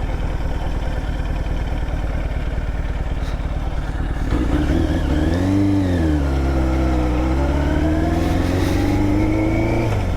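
Motorcycle engine running on the move. About four seconds in the revs rise and fall, then climb steadily as it accelerates, dropping off right at the end.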